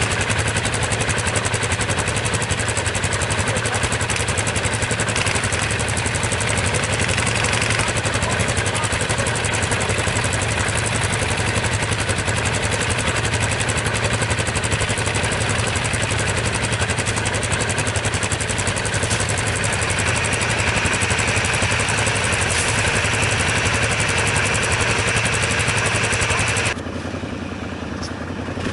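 ATV engine running steadily at a fairly even speed, loud and with a lot of noise over it. About 27 s in the sound drops abruptly to a quieter level.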